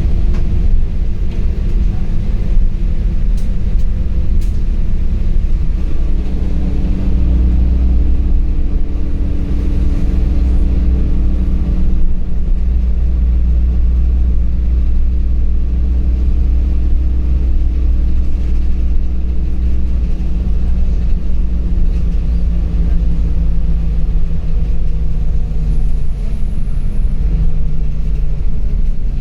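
LiAZ 5292.65 city bus under way, its engine and drivetrain rumbling steadily. The engine note rises about six seconds in and drops near the end.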